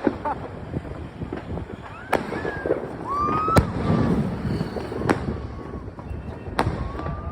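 Fireworks bursting: four sharp bangs about a second and a half apart, over a steady rumble.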